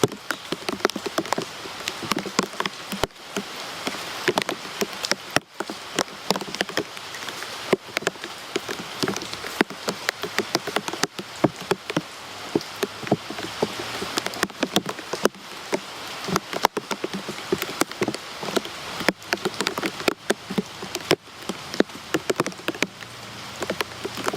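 Rain falling steadily, with many individual drops striking a nearby surface as sharp clicks over an even hiss.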